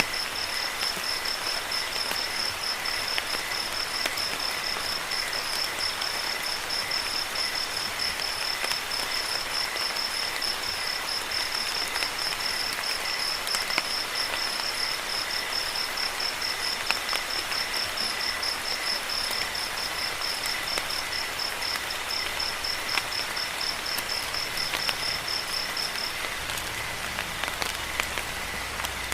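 Steady rain with a cricket chirping in a fast, even pulse over it; the cricket stops a few seconds before the end while the rain goes on, with scattered sharp drip ticks.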